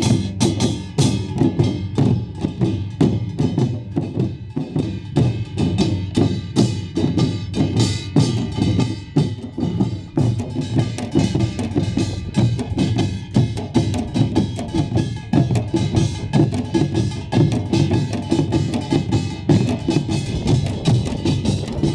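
A Korean pungmul folk-percussion ensemble playing a fast, driving rhythm: the clanging kkwaenggwari small gong over pounding buk barrel drums and the jing gong.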